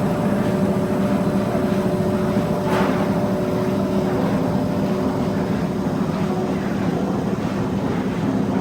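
Steady machinery running, with a constant hum in two steady tones and a single sharp click about three seconds in.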